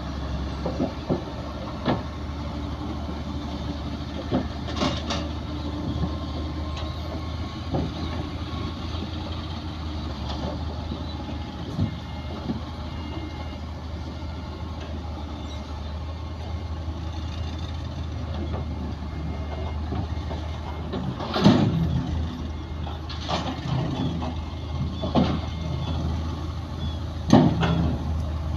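Heavy diesel earthmoving machinery running steadily, with a low drone throughout. Several loud knocks come in the last third.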